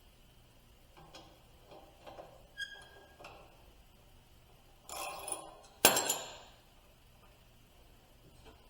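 Metal parts and hand tools clinking and tapping, one tap with a short ringing ping, then a brief noisy scrape and a single loud metallic clank about six seconds in.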